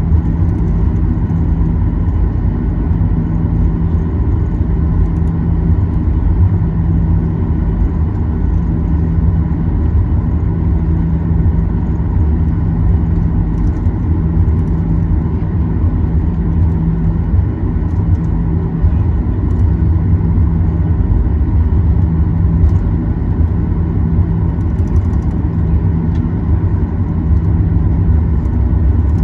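Boeing 737-800's CFM56-7B jet engines at taxi power, heard inside the cabin: a steady low rumble with a faint, even whine, as the airliner taxis toward the runway.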